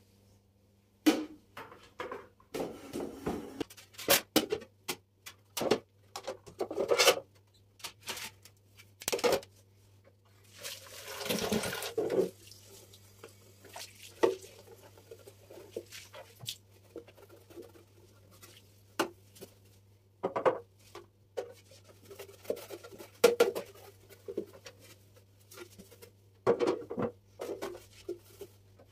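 Kitchen containers and packages being handled and set down on cupboard shelves: scattered knocks, taps and clicks, with a longer rush of noise about eleven seconds in. A faint steady low hum runs underneath.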